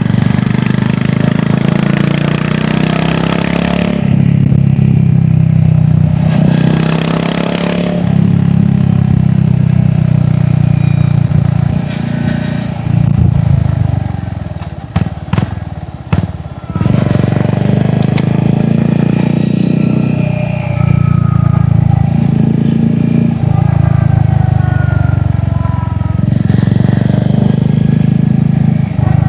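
Royal Enfield Hunter 350's single-cylinder engine running through an aftermarket exhaust while riding. The engine note rises and drops with throttle and gear changes, easing off briefly about halfway through.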